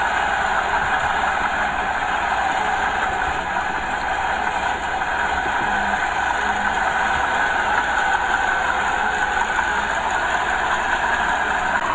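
Small Komatsu bulldozer running steadily while it works soil.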